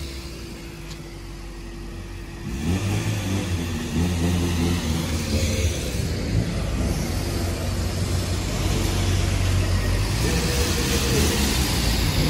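Car engine running and being revved, the revs rising and falling, louder from about two and a half seconds in.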